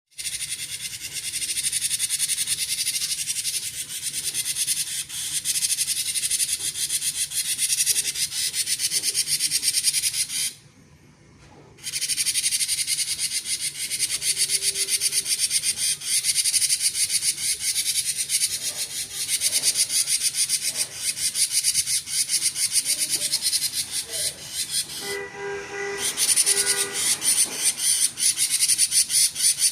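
Cinereous tit (gelatik batu) singing non-stop in the rapid, crackling 'konslet' style: a dense, high-pitched buzzing chatter that breaks off briefly twice, around a third of the way in and again near the end.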